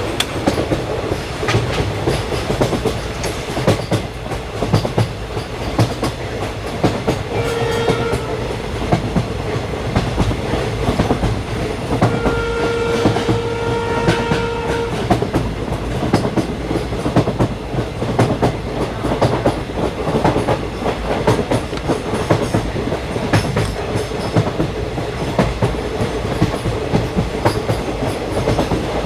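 Vande Bharat train running at speed, its wheels clicking steadily over the rail joints under a continuous rumble. A train horn sounds twice, a short blast and then a longer one of about three seconds.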